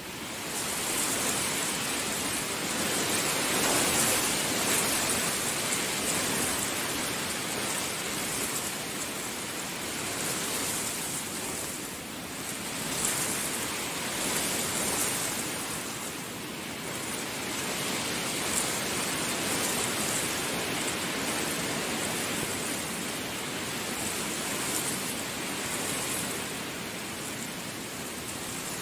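Heavy rain falling steadily, a dense hiss that swells and eases every few seconds, louder from the first second.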